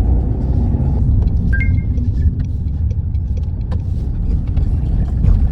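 Toyota Sienta being driven: a steady low rumble of road and engine noise. A brief high two-tone chirp comes about a second and a half in.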